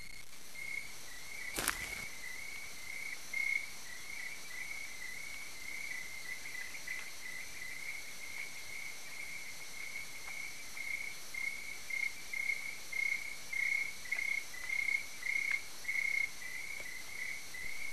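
Crickets chirping steadily, about two short chirps a second at one high pitch, over a faint hiss. A single click sounds about two seconds in.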